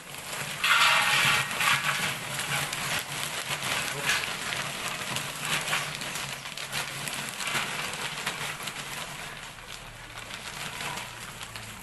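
Snack-seasoning mixer running: dry chips tumbling inside it in a dense, crackling rattle over the steady low hum of its motor, loudest about a second in.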